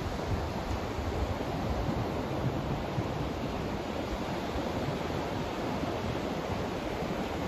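Steady white-noise track: an even, unbroken hiss with most of its weight in the low and middle range.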